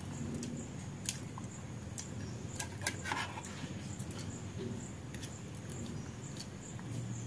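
Close-up mouth sounds of someone eating upma: chewing and lip smacks with scattered short clicks, over a steady low hum.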